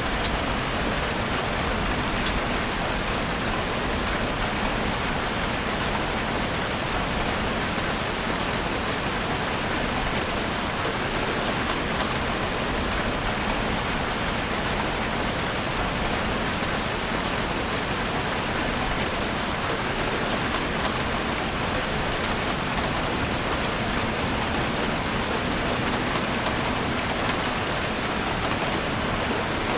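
Heavy rain falling steadily on a roof, a dense even hiss with many small drop ticks.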